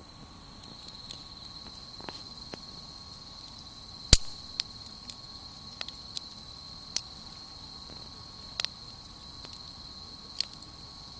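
Wood campfire crackling with scattered sharp pops, the loudest a little after four seconds in, over a steady high insect trill.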